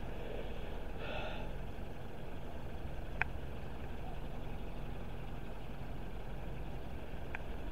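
Steady low background rumble of outdoor ambience while waiting by the line, with a single sharp click about three seconds in.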